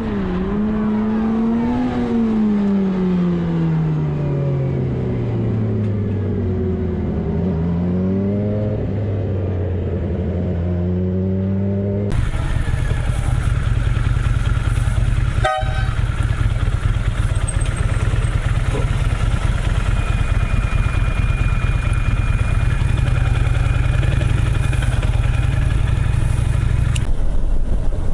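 Motor vehicle engine running on the road. Its note falls slowly as it slows, then climbs again. It is followed by a steady low engine drone with road noise, a single sharp click, and a thin steady high tone held for several seconds.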